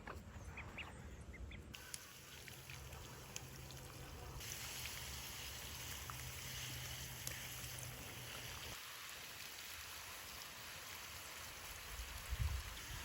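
Faint farmyard sounds: ducks calling over a steady low hum and a background hiss, with a few short high chirps early and some rustling near the end.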